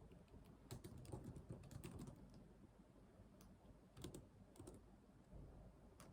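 Computer keyboard typing: a quick run of keystrokes in the first two seconds, a single key near the middle, another short burst around four seconds in, and a last keystroke near the end.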